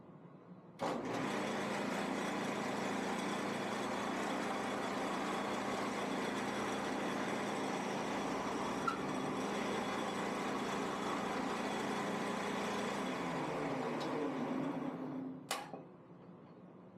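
Shopsmith woodworking machine switched on, running steadily for about twelve seconds with an even electric-motor hum, then switched off and spinning down, ending with a sharp click.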